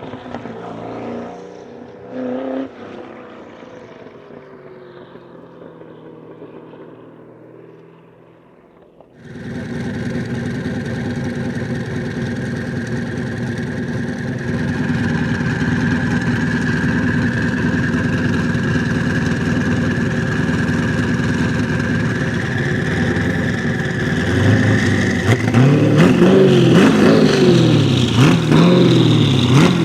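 Twin-turbocharged LS7 V8 engine of the Mazzanti Millecavalli, first a quieter engine note falling away in pitch, then abruptly much louder and running steadily. Near the end the revs rise and fall repeatedly several times.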